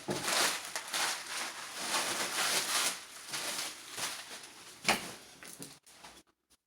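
Packaging rustling and crinkling as items are unpacked by hand, busiest in the first three seconds, then lighter handling with one sharp tap about five seconds in.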